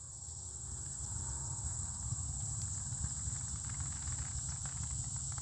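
Steady high-pitched chorus of insects, crickets or the like, with a faint low rumble and a few soft rustles.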